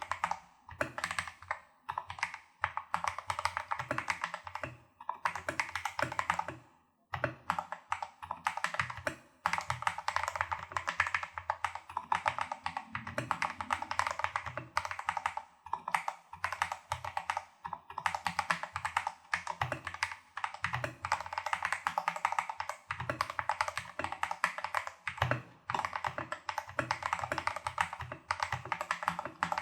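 Fast, continuous typing on a Tester68 mechanical keyboard with lubed Holy Panda clone tactile switches and XDA-profile keycaps. Rapid keystrokes run with only brief pauses, the longest about seven seconds in.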